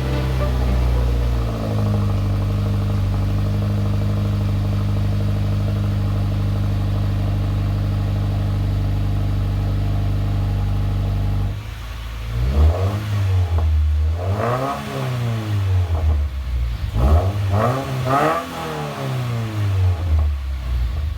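Subaru WRX's boxer flat-four engine running through an aftermarket axle-back exhaust, idling steadily for about ten seconds, then blipped up and back down about five times in quick succession.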